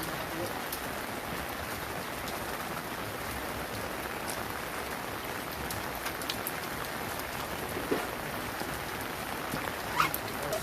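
Steady rain falling, with scattered sharper drop taps and two louder knocks about eight and ten seconds in.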